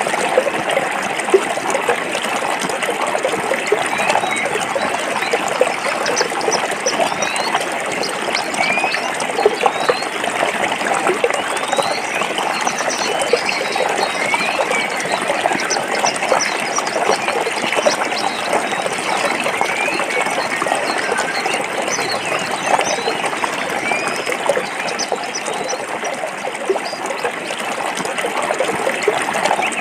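A forest stream flowing and splashing over rocks, a steady rush full of small trickles and plops. Short rising chirps recur every few seconds above it.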